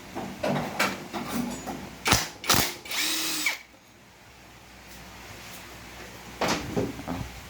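A cordless power driver spinning for about half a second, a steady whine that winds down as it stops, backing out a valve body bolt on a 5R55S automatic transmission. Sharp metal knocks and clinks of the tool and parts come before it and again near the end.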